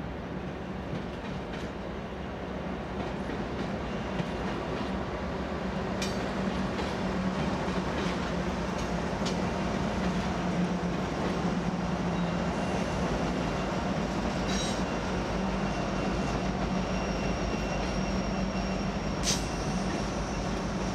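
Union Pacific freight train rolling past, a steady rumble of cars and wheels on the rail that grows louder over the first few seconds. Occasional sharp clicks are heard, and a faint high wheel squeal joins about halfway through.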